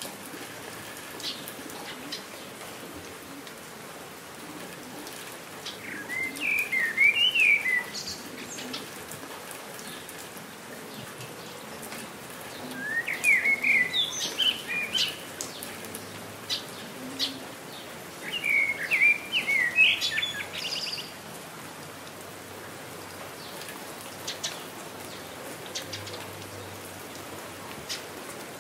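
Steady rain falling with scattered drips, and a songbird singing three short phrases of quick chirps, a few seconds apart.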